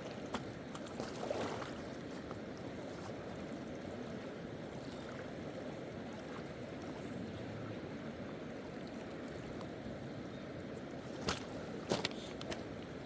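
A steady, low rushing noise, with a few sharp clicks near the end.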